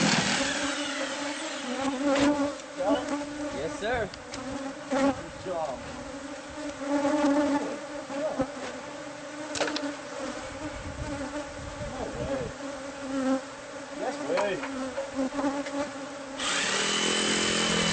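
Swarm of honeybees buzzing steadily, with single bees swooping past close by in short rising and falling buzzes. A louder steady mechanical hum cuts in about sixteen seconds in.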